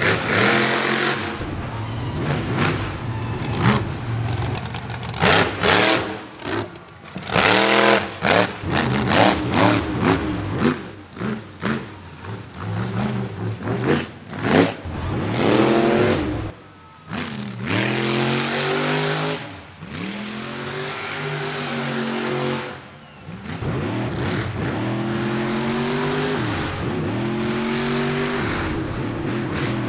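Monster truck engine revving hard and repeatedly, its pitch climbing and dropping with each throttle stab. A run of loud sharp bangs comes about five to ten seconds in. Later the engine settles into longer steady pulls that rise and fall.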